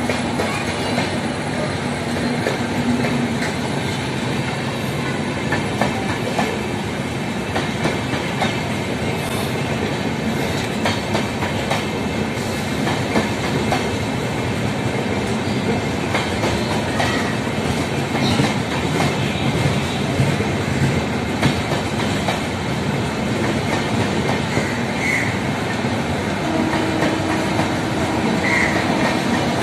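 Passenger express train's coaches rolling past on the rails: a steady rumble with clickety-clack over the rail joints and a few brief wheel squeals in the second half.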